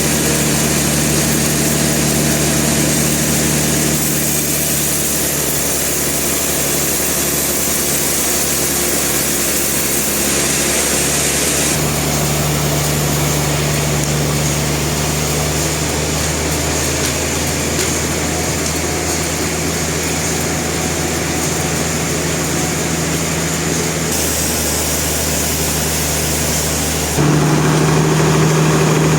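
Engine-driven sawmill machinery running steadily. Its tone shifts abruptly several times, and it gets louder near the end.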